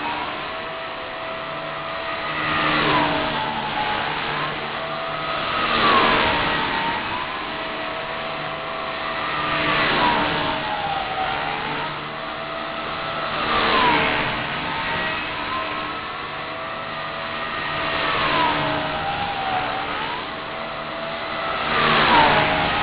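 Align T-Rex 250 SE electric RC helicopter flying repeated passes, its motor and rotor whine swelling and dipping in pitch with each pass, about every four seconds.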